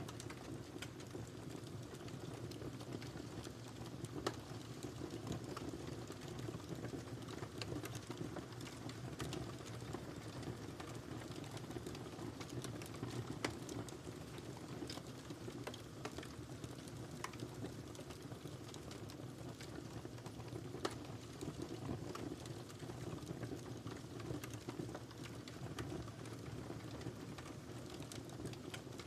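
Wood fire crackling in a fireplace: a steady low rush of burning with frequent small snaps and a few sharper pops scattered through.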